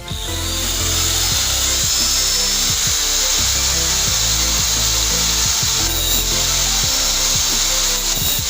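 Angle grinder's abrasive disc grinding the steel teeth of a wood saw to sharpen them: a steady, high-pitched grinding hiss with a thin whine. Background music with a low, pulsing bass line plays underneath.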